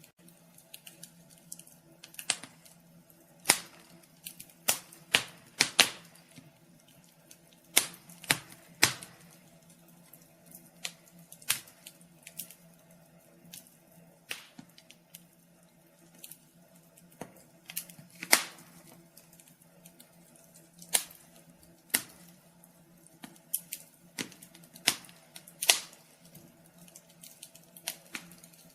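Wood fire crackling in a fireplace: irregular sharp snaps and pops, a few every couple of seconds, some louder than others, over a faint steady low hum.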